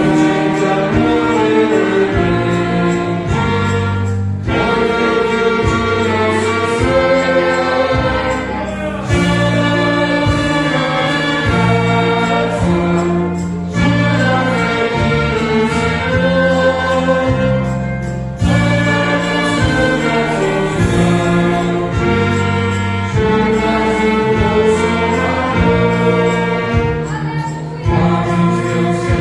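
A choir singing a hymn with orchestral accompaniment and a moving bass line, in sustained phrases of about four to five seconds with brief breaks between them.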